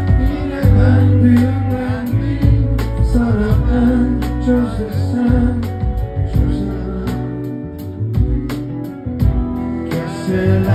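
A live band playing a song, with regular drum hits, heavy bass and singing over it.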